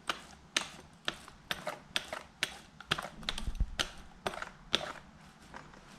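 Paint roller being worked back and forth over a cabinet door, with sharp clicks about twice a second.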